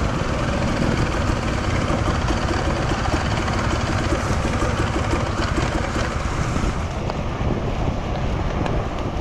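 Enduro dirt bike engine running under the rider, heard through a steady rush of wind on the microphone.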